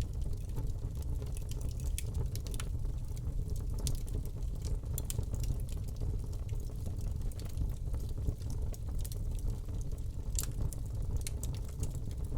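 Wood fire in a fireplace crackling: a steady low rumble of burning under frequent sharp pops and snaps, with a few louder pops about two seconds in, around five seconds, and about ten seconds in.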